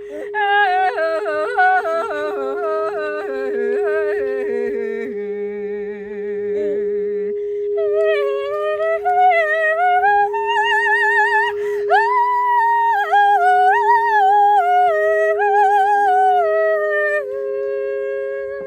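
Wordless singing with a wavering vibrato and quick yodel-like leaps in pitch, over a steady unbroken drone tone. About five seconds in the voice drops low for a couple of seconds, then climbs high again, and it settles on one held note near the end.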